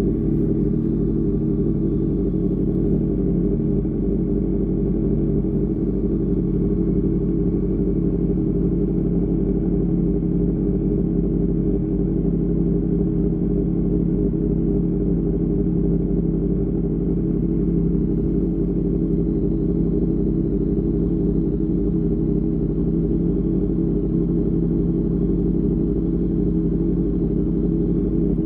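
Sport motorcycle with an Austin Racing GP1R aftermarket exhaust running at steady revs while cruising, its exhaust note holding an even pitch.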